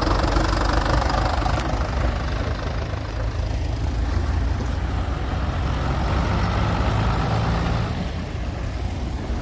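Vintage tractor engines running low and steady as tractors move off one after another.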